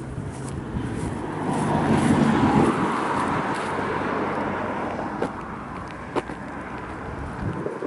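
A car driving past on the road: engine and tyre noise swell to a peak about two seconds in, then slowly fade away.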